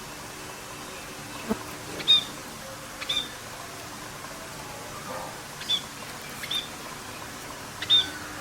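A pet bird chirping: about five short, sharp chirps at irregular intervals of a second or two, over a steady hiss, with a single light tap about one and a half seconds in.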